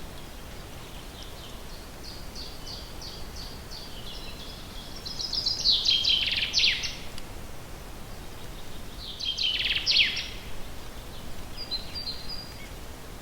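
Forest songbird singing: a run of quick high notes that swells into a loud burst of falling notes, then a second, shorter loud phrase a few seconds later. A steady background hiss runs underneath.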